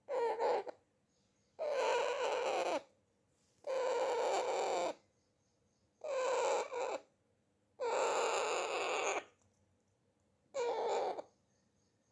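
Pet parrot calling over and over while eating: six drawn-out calls, each about a second long, coming roughly every two seconds with silence between.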